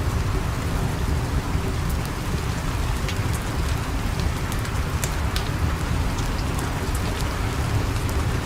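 Steady, heavy rain with a low rumble under it and scattered sharp ticks and crackles.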